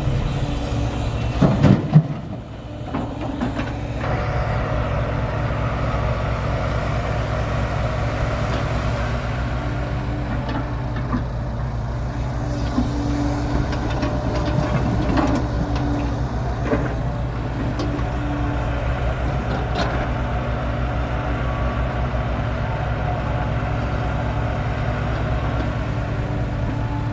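Dump truck's diesel engine running steadily at an even pitch, with a brief louder clatter about a second and a half in.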